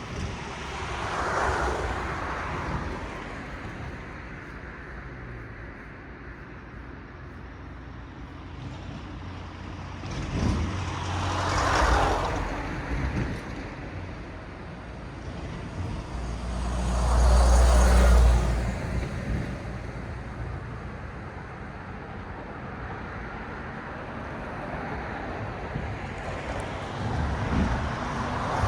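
Road traffic: cars passing one at a time, each swelling and fading as it goes by, over a steady hiss of tyres. The pass-by about two-thirds in is the loudest, with a deep rumble, and another vehicle is approaching near the end.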